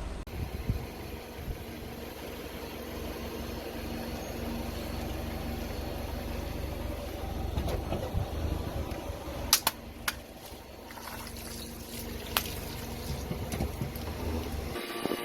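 A car's engine running low and steady as its tyre rolls slowly over objects, with a few sharp cracks and pops as things break under the tyre: a pair close together near the middle and one more a couple of seconds later.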